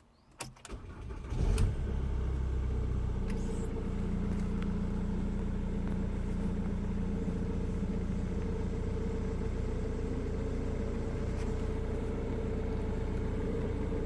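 Jaguar X-Type's engine cranking and catching about a second and a half in, then idling steadily.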